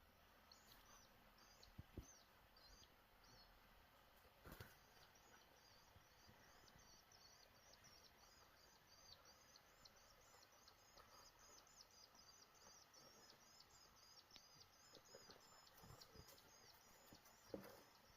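Faint, high chirping repeated several times a second, going on steadily, with a few soft knocks.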